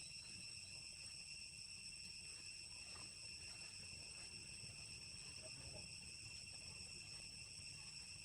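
Faint, steady chorus of insects, a continuous shrill high-pitched drone with no break, over a low rumble.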